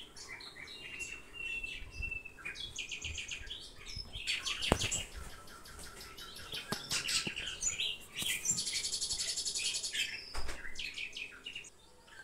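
A bird singing in rapid chirps and trills, with a long, fast, high trill from about eight to ten seconds in.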